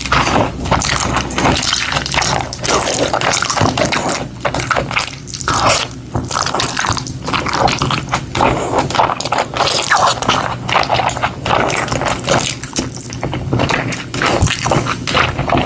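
Wet chewing and mouth sounds of a person eating, a dense, continuous run of small clicks and squelches.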